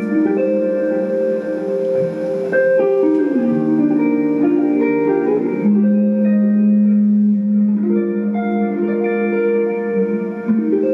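Live band music: a clean, guitar-led opening with sustained, ringing chords that change every second or two.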